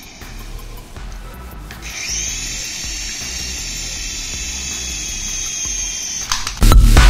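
High-pitched steady whine of a small electric motor in a radio-control toy. It drops out briefly and starts up again with a short rising pitch about two seconds in. Loud electronic music cuts in near the end.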